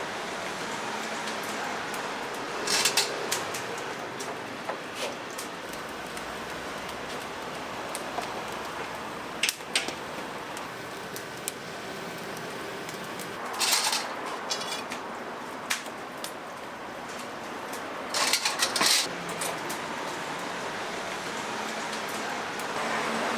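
Occasional clatter of metal kitchen utensils and pans over a steady background hiss, in about four short bursts several seconds apart.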